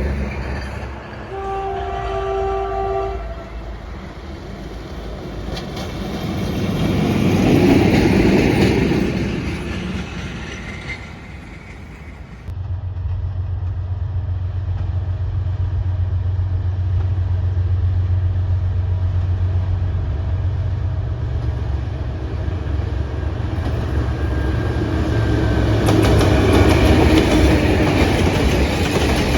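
A train horn sounds a held chord for about two seconds near the start as a train passes. The sound then cuts abruptly to a locomotive's steady low engine hum, with rail and wheel noise building near the end.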